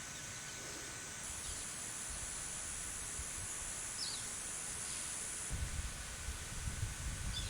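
Tropical forest ambience: a steady high insect buzz that grows louder for a few seconds in the middle, with a couple of faint short bird chirps. Low rumbling on the microphone comes in over the last two seconds.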